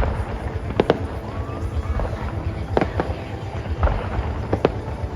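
Aerial fireworks shells bursting, with about five sharp bangs spread irregularly (two close together about a second in), over a steady low rumble.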